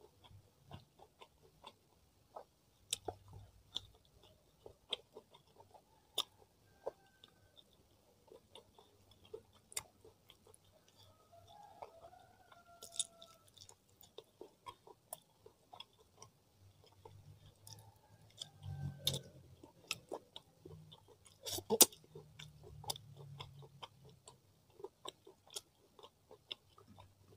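Close-miked chewing and wet mouth sounds of someone eating rice and grilled chicken with his fingers: irregular soft clicks and smacks. One louder sharp crack comes late on.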